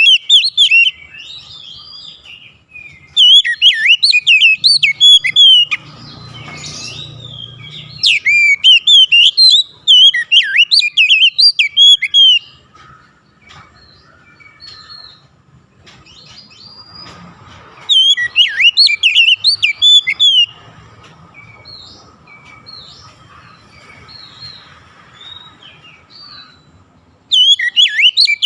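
Oriental magpie-robin (kacer) singing: rapid strings of sharp, up-and-down whistled notes, loud, coming in several bursts of a few seconds each with quieter gaps between.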